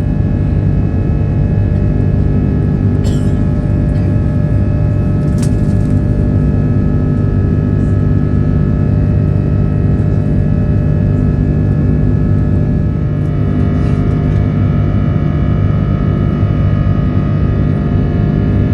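Airbus A330-300 cabin noise: steady jet engine and airflow rumble with several steady engine tones running through it. A few faint clicks sound at about three, five and fourteen seconds in.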